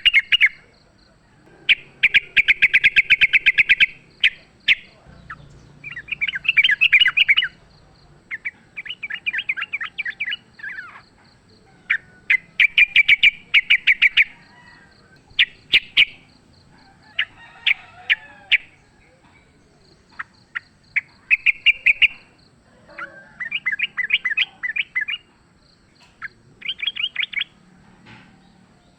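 Yellow-vented bulbul (trucukan) song: a dozen or so bursts of rapid, chattering notes, each burst a second or two long, with short pauses between them.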